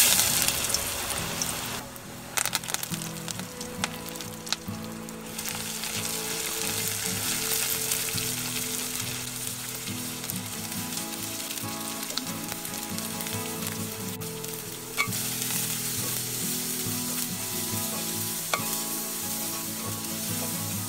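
Chopped garlic and onions frying in hot oil in a metal pot, a steady sizzle with a loud surge of sizzling right at the start as the garlic hits the oil. A few sharp clicks and knocks come from stirring with a wooden spoon.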